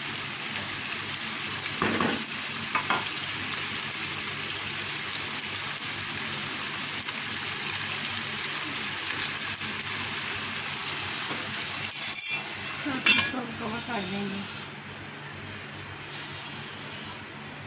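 Mince masala with stuffed bitter gourds sizzling steadily in a pan, with a few knocks and scrapes in the pan about two seconds in, again a second later, and around thirteen seconds in. The sizzling falls away near the end.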